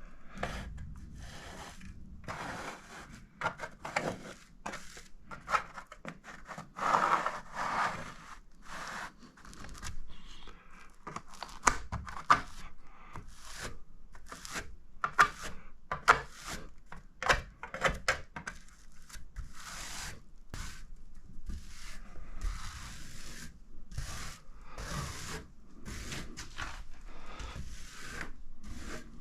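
A run of irregular scraping and rubbing strokes, each lasting a fraction of a second, with a few sharper peaks about 12, 15 and 17 seconds in.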